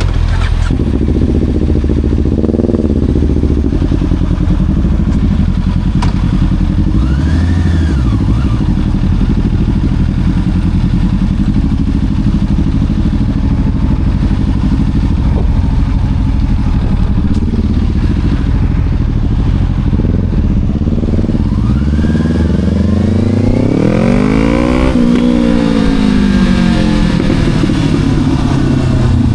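Motorcycle engine running steadily, with a few short rises in revs in the first third. About two-thirds of the way through, the revs climb in one long rise, peak, and fall away toward the end.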